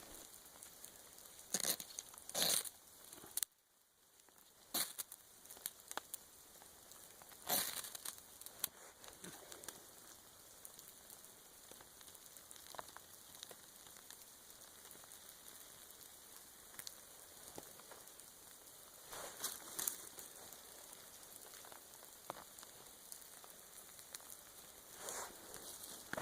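Faint, steady hiss of freezing rain falling, broken by a few short bursts of crinkling and rustling as gear is handled.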